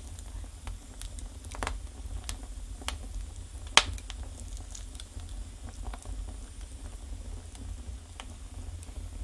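Wood fire burning in a fireplace: scattered crackles and pops over a low steady rumble, with one sharp, loud pop a little under four seconds in.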